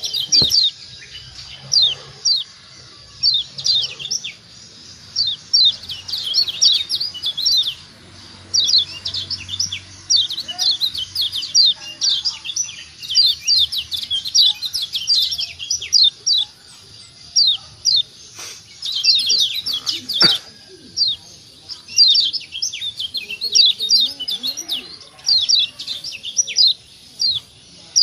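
Lombok yellow white-eye (kecial kuning, a Zosterops white-eye) giving rapid 'ciak ciak' chip calls: short, high, falling chirps in quick runs of several a second, broken by brief pauses. The calls are used as a lure to set other kecial calling. Two sharp clicks come in the second half.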